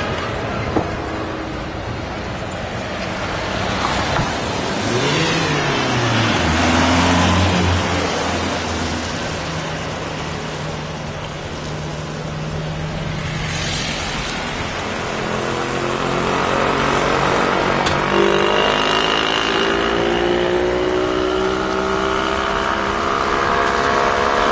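Tractor engines running. One engine revs up about five seconds in and settles to a steady note, and later another rises steadily in pitch as it accelerates.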